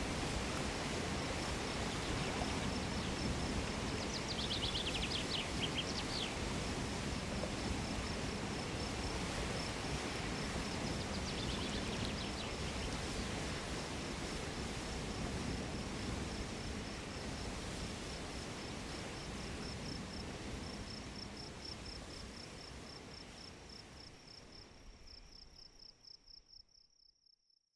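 Steady rush of a mountain torrent, with an insect trilling in a fast, high pulsing tone and a few short high chirps about four seconds in and again around twelve seconds. The whole fades out over the last several seconds.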